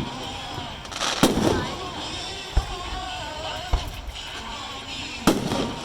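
Fireworks display: two loud, echoing shell bursts, one about a second in and one near the end, with two duller low thuds between them.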